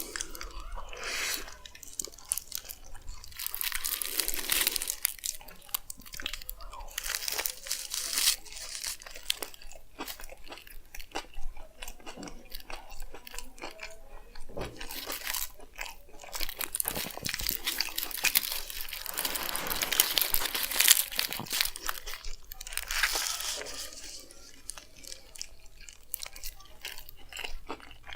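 Close-up chewing and biting into a chicken frankie wrap (a roti roll filled with chicken), a wet, crunching stream of irregular chews with louder spells of big bites.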